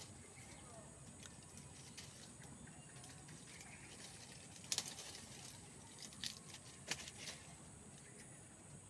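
Faint outdoor background with a steady high-pitched hiss, broken by a few sharp clicks or knocks, one a little under five seconds in and a cluster between six and seven and a half seconds in.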